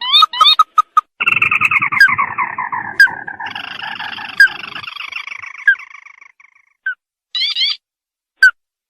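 Recorded lure call of a crake (sintar): sharp clicks and quick rising notes, then about a second in a long rattling trill that falls in pitch and fades out, followed near the end by a few clicks and a short burst of notes.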